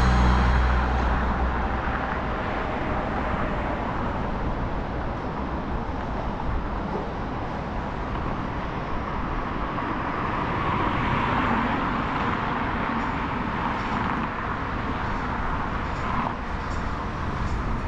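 Steady road traffic noise heard from a moving bicycle, swelling a little about ten seconds in, with a few light clicks near the end.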